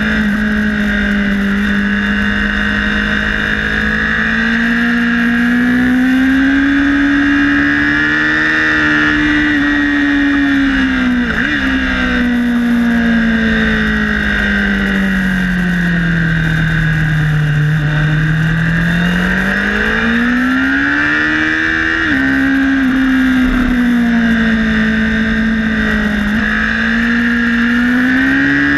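Honda CBR1000RR's inline-four engine under way at track speed, heard from a camera mounted on the bike, its revs swelling and falling smoothly with the corners. The pitch jumps suddenly twice, about 11 and 22 seconds in.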